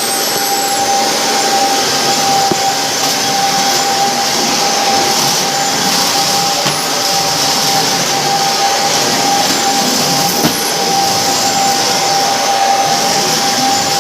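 Vacuum cleaner running steadily, its motor giving a constant high whine over the rush of air.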